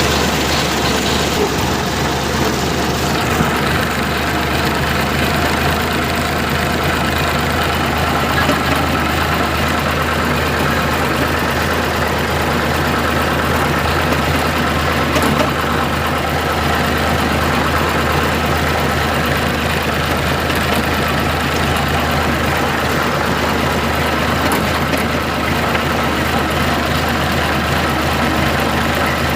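Tractor engine running steadily and loud, heard from on board during the ride.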